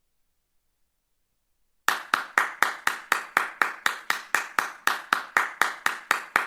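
Hand clapping in a steady rhythm of about four claps a second, starting about two seconds in after silence.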